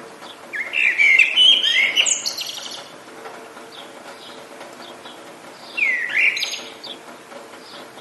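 A songbird sings two loud, quick warbling phrases: one about half a second in lasting about two seconds, and a shorter one near six seconds. Underneath is a steady hiss of rain with faint distant chirps.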